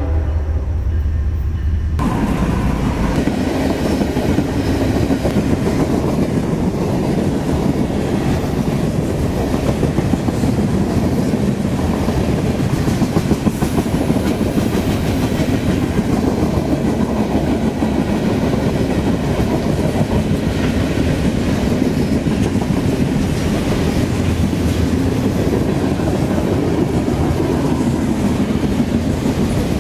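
Loaded open-top freight cars of a CSX trash train rolling past close by, their wheels clacking over the rail joints with a steady loud rumble. The rumble and clatter come in suddenly about two seconds in, after a low rumble.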